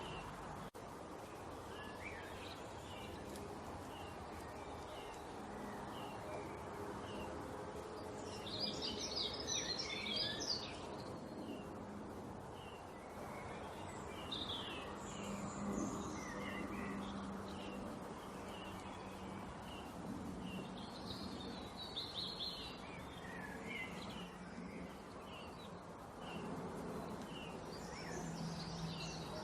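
Small songbirds chirping: a steady string of short, high chirps, with bursts of rapid twittering about a third of the way in and again near the end, over a steady background of noise with a low hum.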